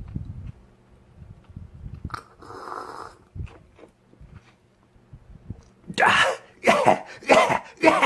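Close-up eating sounds: soft chewing, then from about six seconds in a run of louder, crunchy bites and chews about one every half second.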